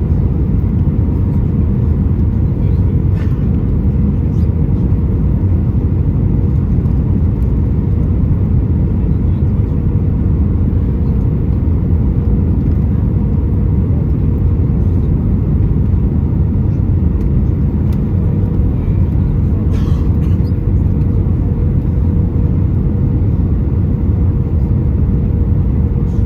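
Steady, loud cabin noise inside an Airbus A320 airliner in descent: a constant low rumble of airflow and engines, with a faint steady hum on top and a couple of small clicks.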